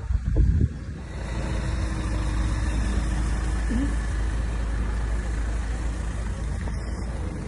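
Vehicle engine idling, a steady low rumble, after a short loud low-pitched blast in the first second.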